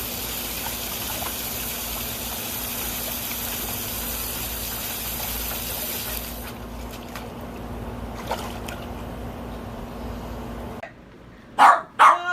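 Water running steadily with a rushing hiss that drops to a quieter flow about six seconds in. A dog barks loudly two or three times near the end.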